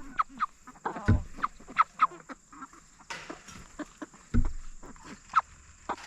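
A flock of Cornish cross meat chickens clucking with many short calls, with two dull thumps, about a second in and past the middle.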